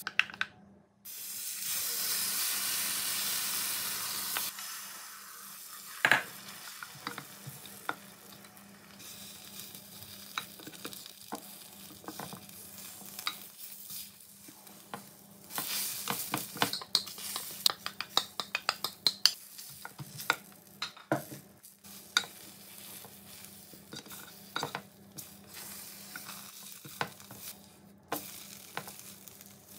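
Egg mixture for a Korean rolled omelette (gyeran-mari) sizzles loudly for a few seconds as it is poured into a hot oiled square pan about a second in. It then keeps frying with a quieter sizzle under repeated taps and scrapes of a spatula against the pan as the omelette is rolled.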